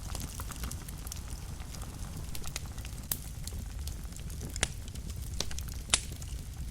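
Wood fire burning in a fireplace: a steady low rumble of flames with frequent small crackles and a few sharper pops, the loudest about six seconds in.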